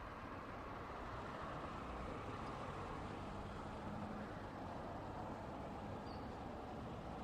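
Steady wash of passing road traffic: tyre and engine noise from cars and trucks blending into a continuous rumble.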